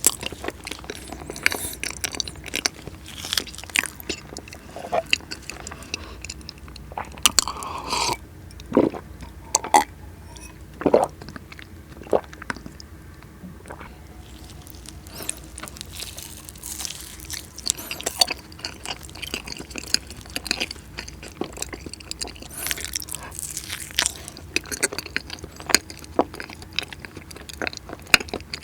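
Close-miked eating of cheesecake: irregular wet mouth smacks and soft crunchy chewing sounds, several a second in clusters with short gaps.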